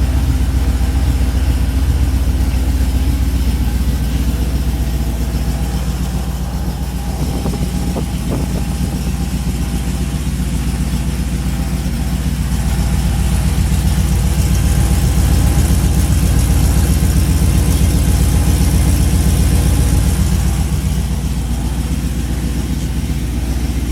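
1994 Pontiac Trans Am's 5.7 L LT1 V8 idling steadily just after start-up, through long-tube headers, an off-road Y-pipe with no catalytic converters, and a Borla Pro XS muffler. It gets a little louder for a few seconds in the second half, then settles.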